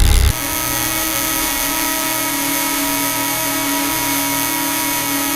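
A loud low rumble cuts off just after the start, leaving a machine running with a steady high whine over a low hum.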